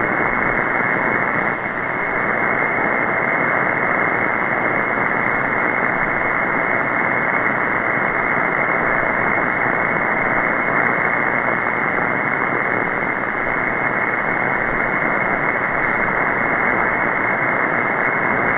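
Steady hiss of band noise from a shortwave software-defined radio receiving 14.325 MHz in upper-sideband mode on an empty channel, cut off sharply above about 2 kHz by the sideband filter.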